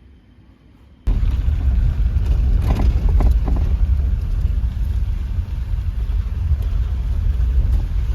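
Strong wind buffeting the microphone in a loud, dense rumble that starts abruptly about a second in.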